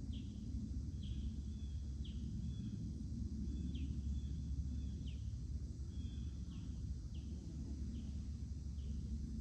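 Outdoor ambience: a bird repeats a short, falling chirp about once a second over a steady low rumble.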